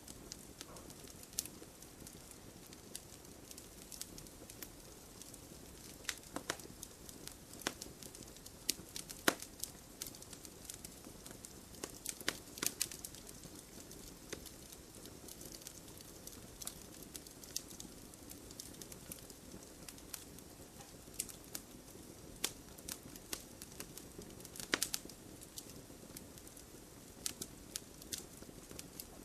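Campfire burning with a steady low rumble of flames and irregular sharp crackles and pops from the wood, a few a second, some louder than others.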